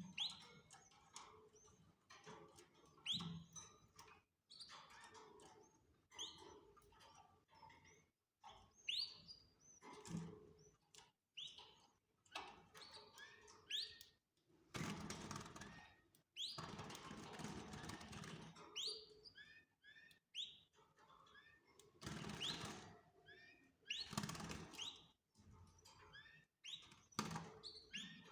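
Caged canaries give many short rising chirps. Several louder stretches of fluttering wing noise and light knocks against the cage come between the chirps.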